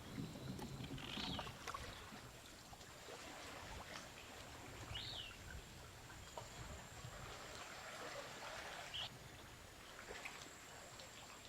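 Kayak paddles dipping and splashing softly in calm seawater as the kayak is paddled along, with three short high chirps.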